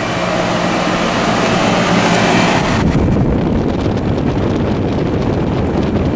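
A vintage air conditioner running close to the microphone, with a loud rush of air buffeting the mic. About three seconds in the hiss suddenly thins, leaving a low rumble.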